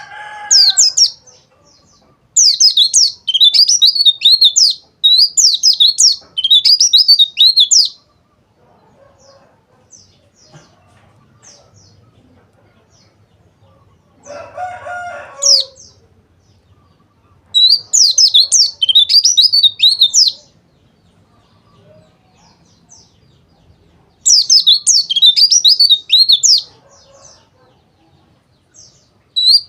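Pleci (white-eye, Zosterops) singing in rapid, high twittering bouts a few seconds long, four of them separated by quieter pauses. A lower call sounds at the very start and again about halfway.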